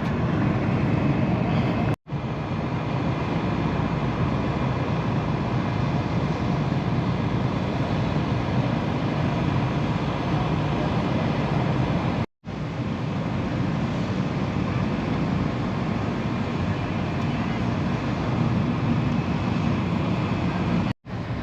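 Steady outdoor din of a crowd and engines: an even rumble and hiss with indistinct voices mixed in, cut off abruptly and resuming about two seconds in, around twelve seconds and just before the end.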